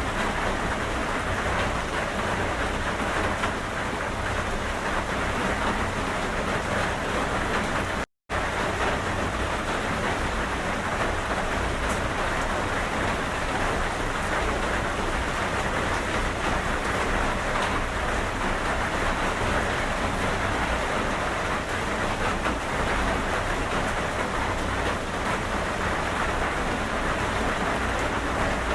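Steady, even rain falling on a surface. It cuts out completely for a split second about eight seconds in.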